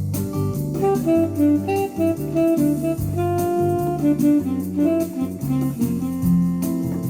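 Korg Pa1000 arranger keyboard playing a jazz-style factory preset: a saxophone-like lead melody over bass, chords and a drum pattern.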